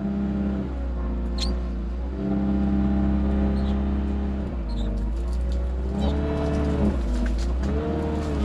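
Tractor diesel engine running under load, its pitch sagging and recovering several times as it lugs.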